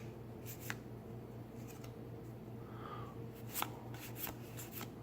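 Magic: The Gathering trading cards being flipped through by hand: faint scattered light snaps and clicks of card edges, with a soft sliding rub about three seconds in.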